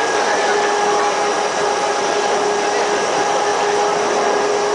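Electric Corcovado rack railway train climbing: a steady whine from its motors and gearing over a loud, even rushing noise of the moving car.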